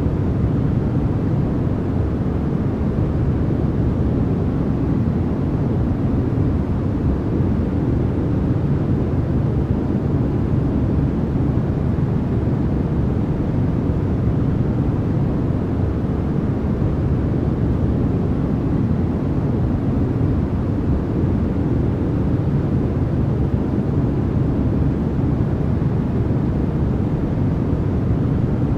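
Continuous generated noise for sleep, steady and unchanging, a deep even rush with most of its weight in the low end and little bright hiss.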